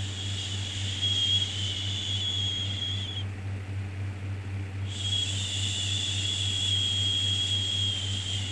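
Long drawn-out 'shhh' shushing sounds of the kind used to soothe a baby, each lasting about three and a half seconds: one ends about 3 seconds in, and the next starts about 5 seconds in and runs on. A steady low hum continues underneath.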